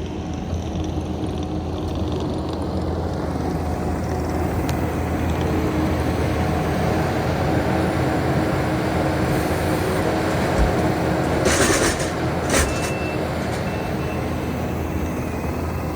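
Engine of heavy equipment running steadily, with a few sharp metal clanks about three-quarters of the way in.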